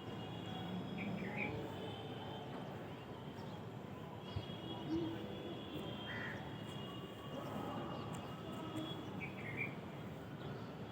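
Morning outdoor ambience: a steady background hum and haze with a bird calling briefly three times, plus a single click midway.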